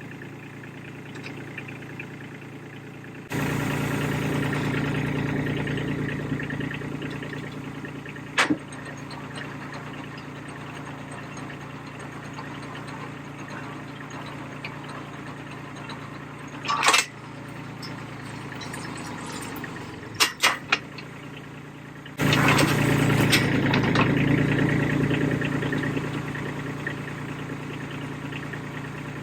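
Tractor engine running with the post-hole auger hooked up, getting suddenly louder about three seconds in and again about 22 seconds in. Sharp metallic knocks come once near 8 seconds, once near 17 seconds, and as a quick cluster of three around 20 seconds.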